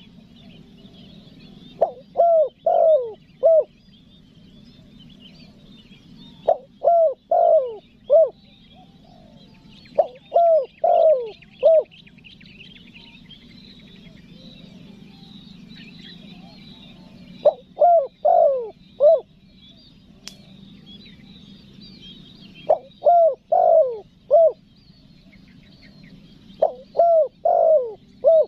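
Spotted dove (tekukur) calling: six phrases of about four falling coos each, spaced a few seconds apart, with faint chirping from small birds behind.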